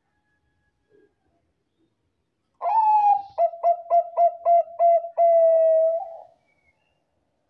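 Zebra dove (Bangkok-type perkutut) cooing once, about two and a half seconds in: a longer opening note, a quick run of about six short notes, then a long held final note.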